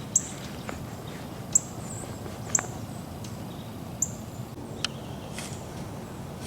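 A small bird calling in short, sharp, high chirps, about five of them spaced roughly a second apart, over a steady low background noise.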